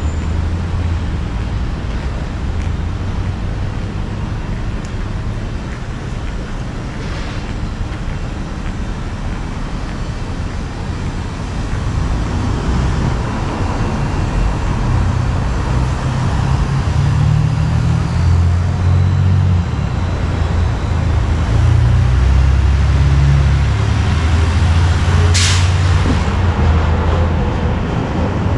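Street traffic: a steady low rumble of passing vehicles that grows louder about halfway through, with a short sharp hiss of air near the end.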